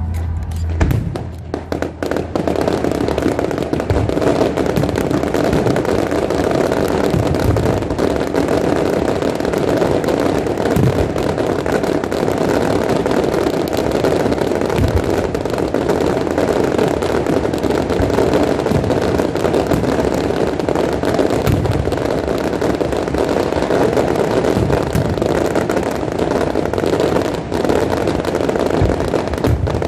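Fireworks display: a dense, continuous barrage of crackling and popping with scattered low booms, building up over the first couple of seconds and then holding steady.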